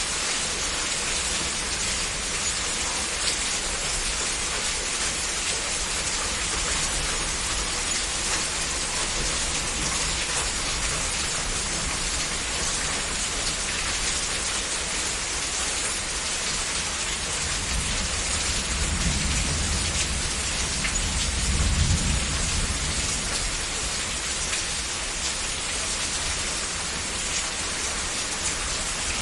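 Heavy rain falling steadily in a dense, even hiss. A low rumble of thunder swells in about two-thirds of the way through, peaks, and fades.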